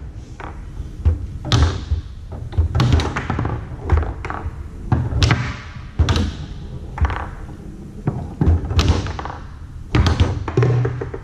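Tornado foosball table in play: the ball cracking off the plastic men and the table walls, with rods knocking, in irregular sharp clacks one to three a second.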